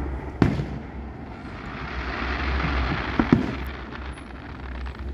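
Fireworks show: aerial shells bursting with sharp bangs, one at the start, another just under half a second in, and a quick pair a little after three seconds, over a steady background noise that swells in the middle.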